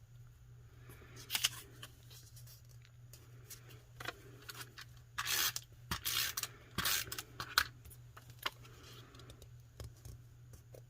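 Paper being handled and rustled, crinkling in several short bursts, most of them a little past the middle.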